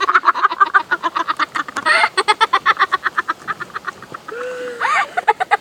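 A person laughing in a long, fast run of short pulses, about eight a second, with a brief held note about four seconds in before the laughing picks up again.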